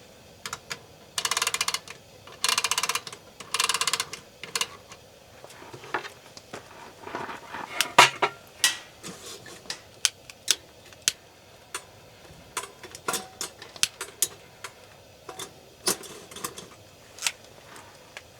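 Three short, loud rasping strokes in the first few seconds, then scattered light clinks and taps of utensils on cookware during food preparation.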